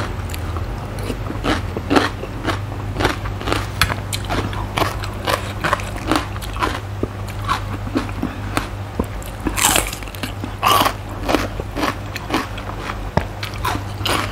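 Close-miked crunching and chewing of raw vegetables: spoonfuls of spicy cucumber salad, then bites of raw red bell pepper, in a steady run of short crunches. The two loudest crunches come about two-thirds of the way through.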